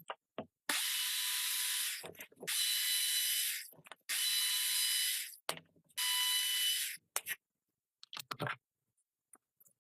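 A small geared mechanism whirring in four separate bursts, each about a second long, with a few faint clicks and knocks after them.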